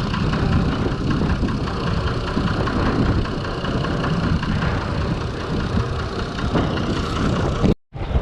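Six-cylinder Perkins diesel engine of a Fordson Major tractor running steadily. The sound cuts out completely for a moment near the end.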